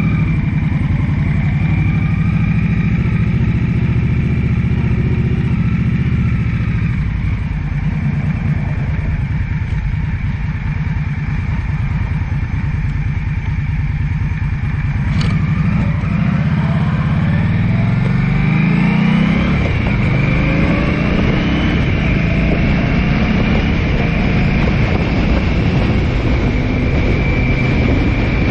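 Motor vehicle driving: steady engine and road rumble, with the engine pitch rising in a few glides about two-thirds of the way through as it speeds up.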